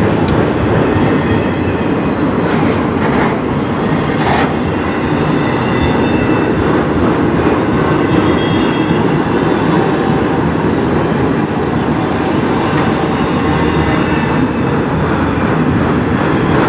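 Freight train of autorack cars rolling past at steady speed: continuous noise of steel wheels on rail, with a few clacks early on and faint high-pitched wheel squeal at times.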